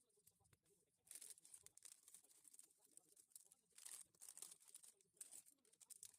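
Faint rustling and crinkling of plastic being handled, in short bursts about a second in, around four seconds and again near five seconds.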